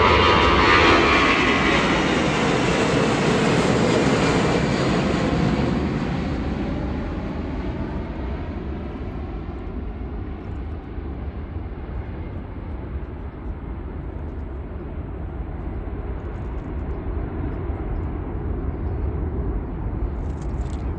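Swiss Airbus A340-313 four-engine jet airliner at takeoff power, its CFM56 engines loud at first and fading over about the first six seconds as it departs. The sound then settles to a steady low rumble.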